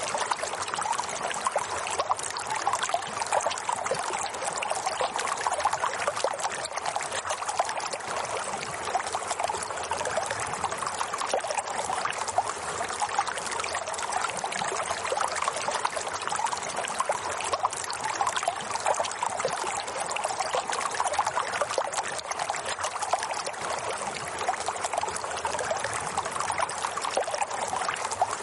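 Steady running water, a continuous trickling, pouring flow with no breaks or changes.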